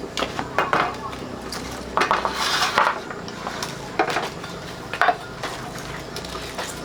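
Kitchenware clinking and scraping: a run of sharp knocks and clinks, like utensils against pots or dishes, with a longer scrape about two seconds in.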